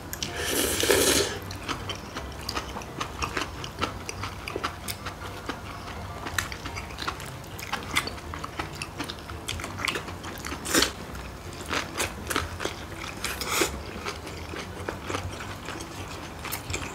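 Close-up eating sounds: biting and chewing kimchi gimbap, with irregular wet crunches and clicks. A long slurp of ramyun noodles comes about a second in.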